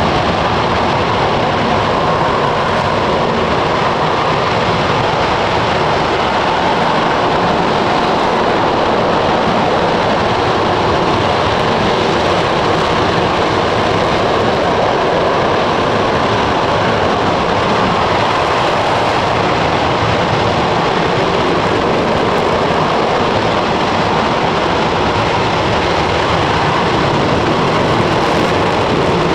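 RS-25 liquid-hydrogen/liquid-oxygen rocket engine, a former Space Shuttle main engine, firing steadily in a hot fire test: a loud, unchanging rush of noise.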